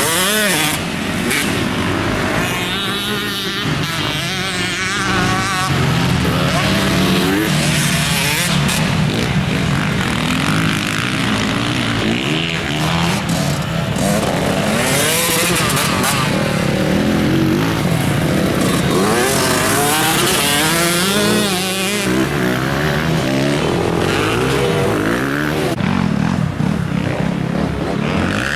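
Motocross bike engine revving up and down over and over, its pitch climbing and dropping as the throttle opens and closes.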